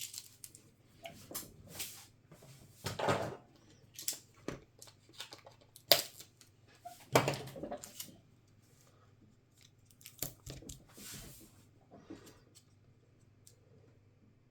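Laptop parts and tools being handled during a repair: irregular clicks, scrapes and rustles, with two sharp clicks about halfway through, growing fainter near the end.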